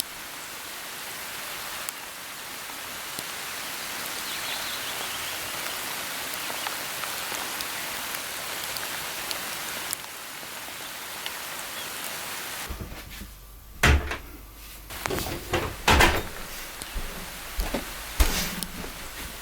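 A steady, even hiss like rain for about the first two-thirds. Then the background changes and a string of sharp knocks and thuds follows, the loudest a little past the middle of that stretch.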